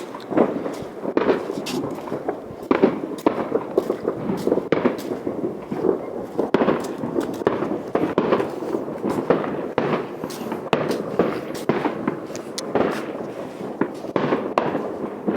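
Fireworks going off without pause: a dense, irregular barrage of bangs and crackling pops, several per second, over a continuous crackle.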